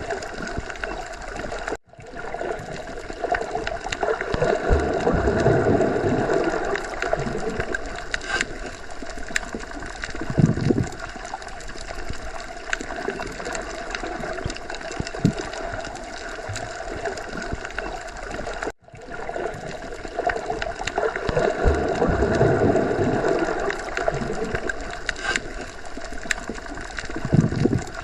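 Underwater ocean ambience: a steady muffled wash of water with slow swells and low gurgling, and faint scattered clicks. The sound drops out for an instant twice, about seventeen seconds apart, and the same swelling pattern follows each time.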